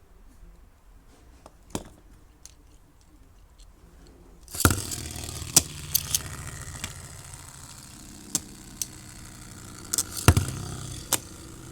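A few faint plastic clicks. Then, about four and a half seconds in, a sharp launch and a Beyblade spinning top whirring steadily in a plastic stadium, with scattered sharp clicks as it knocks against the walls.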